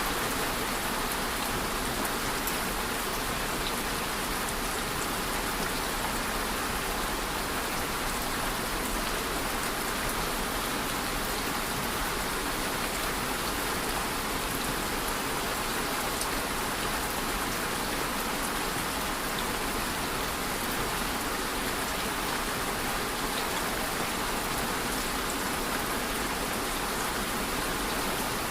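Steady rain falling, a continuous even hiss with faint drop ticks and no change in intensity.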